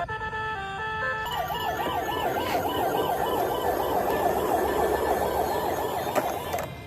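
Battery-powered toy vehicle's electronic siren warbling quickly up and down, about four sweeps a second, cutting off near the end; it follows the last notes of a short electronic jingle.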